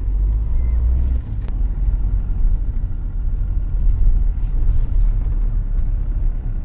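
Car cabin rumble while driving: steady low engine and road noise. A deeper hum drops away a little over a second in.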